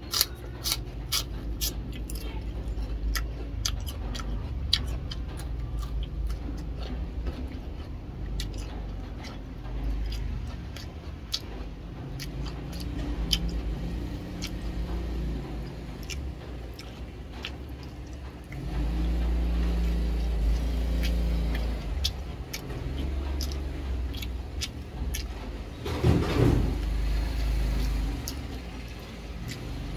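Close-up crunching and chewing of raw cucumber and food, with crisp crunches densest in the first few seconds. Underneath runs a low rumble that swells for a few seconds about two-thirds of the way through, and a louder noisy sound comes near the end.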